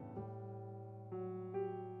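Piano playing slow, held chords that change about once a second.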